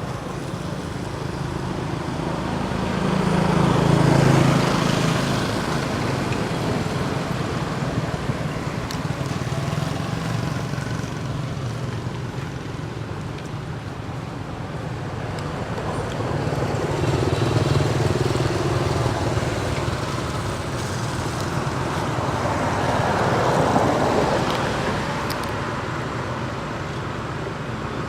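Road traffic passing: a steady low engine hum, with vehicles going by three times, each swelling and fading: about four seconds in, a little past the middle, and near the end.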